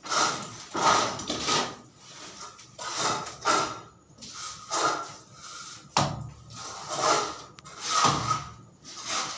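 A hand tool working a rough material with repeated scraping strokes, about one or two a second, uneven in strength.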